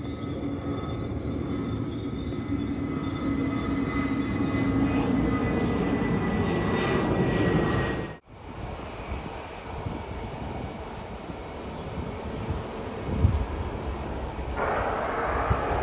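Passenger airliner's jet engines, a steady whine with one tone slowly falling. It cuts off abruptly about eight seconds in, then resumes as a rougher engine rumble, and a louder jet roar comes in near the end.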